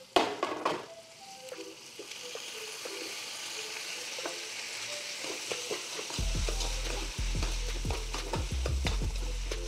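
Chopped vegetables dropped into a pot of hot oil, sizzling as they fry. From about six seconds in, a steel spoon stirs them, knocking and scraping against the pot.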